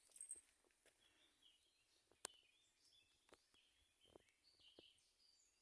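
Near silence outdoors, with faint, scattered chirps of small birds and a few soft clicks, one sharper click about two seconds in.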